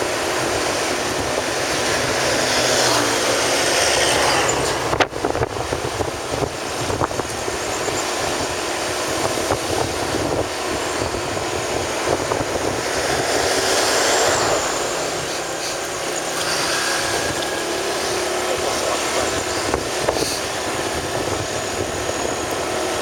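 Steady road and wind noise from a moving vehicle, swelling louder twice, with a sharp click about five seconds in.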